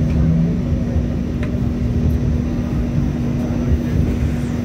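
Interior running noise of an MTR Light Rail Phase III light rail car: a steady low rumble with a constant hum.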